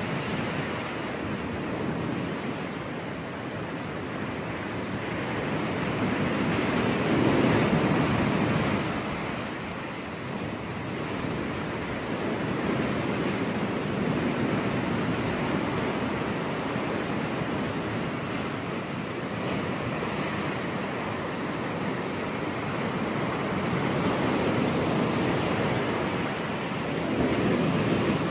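Ocean surf: waves breaking and washing up a beach in a continuous hiss, with swells of louder breakers every several seconds.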